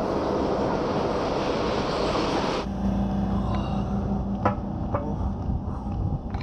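Running noise inside a moving passenger train, a steady rush and rumble. About two and a half seconds in it cuts off sharply, and a train standing at a station platform takes over with a steady low hum and rumble and a couple of light clicks.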